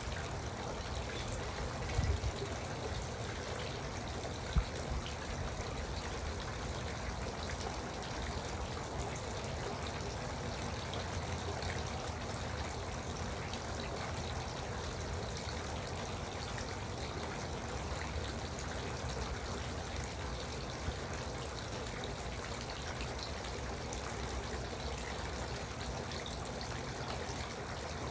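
Garden water fountain, water trickling and splashing steadily. Two brief low thumps come about two and four and a half seconds in.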